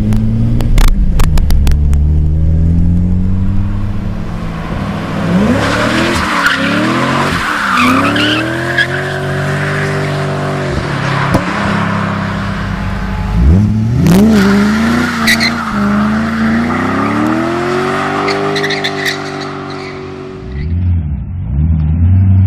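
BMW E30 engine revving hard and accelerating through the gears, its note climbing and dropping back with each shift, with tyres squealing under wheelspin and a few sharp cracks near the start. Near the end another E30 revs as it slides.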